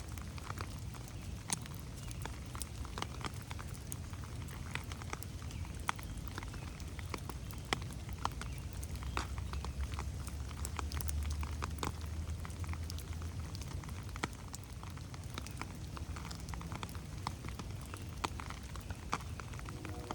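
Steady rain in a forest, with many separate drops pattering and ticking on the foliage over a low rumble that swells for a few seconds in the middle.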